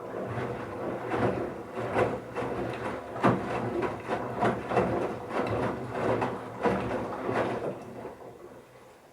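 Bauknecht Super Eco 7615 washing machine turning its drum with wet towels: the motor hums low and steady under irregular sloshing thuds from the tumbling laundry. It starts at once, runs for about nine seconds, then fades to a stop near the end, as in the wash phase's alternating drum turns.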